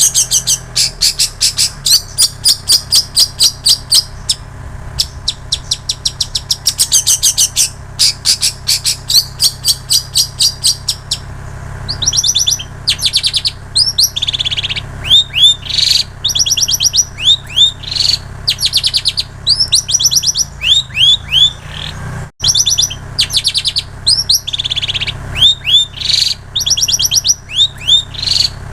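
Long-tailed shrike singing a mimicking song filled with imitations of plain prinia and canary. It opens with fast runs of high, rapid chirps for about ten seconds, then turns to repeated high notes that slur downward.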